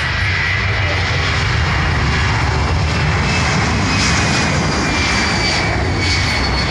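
Jet aircraft engines running loudly: a steady rush with low rumble, and a faint high turbine whine that slowly falls in pitch.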